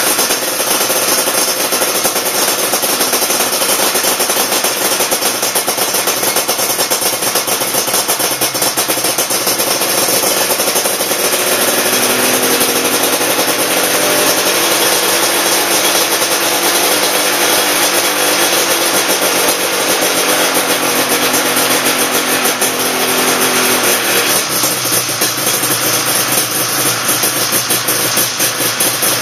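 Yamaha RZ350's two-stroke parallel-twin engine running loud and steady just after catching on its first start after an overhaul. In the middle, the engine speed slowly rises and then falls back.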